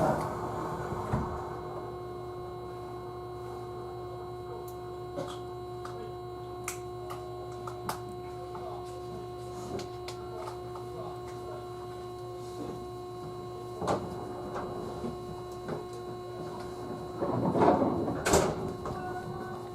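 Steady electrical hum of a standing 311-series electric train car, with a few fixed tones and scattered faint clicks and knocks. A louder clatter comes near the end.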